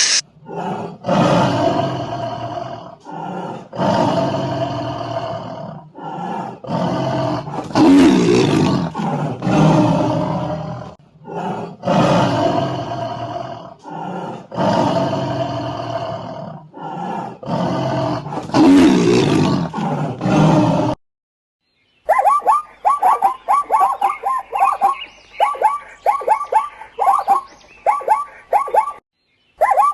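A big cat roaring again and again, about ten loud roars in a row. About two-thirds of the way through it stops, and a bird starts calling in quick, repeated short notes.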